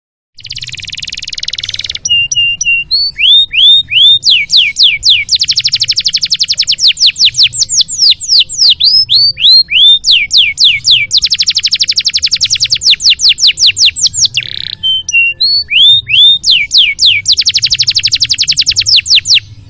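Canary singing a long, loud, varied song: fast trills, repeated downward-slurred notes and short whistles, the phrase changing every couple of seconds.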